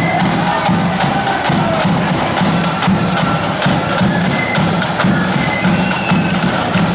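Marching flute band playing: quick, even snare drum strokes over a pulsing bass drum, with the flutes' melody faint above the drums.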